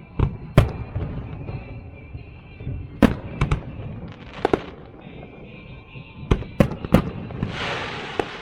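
Fireworks going off: about ten sharp bangs at irregular intervals, with a burst of crackling hiss near the end.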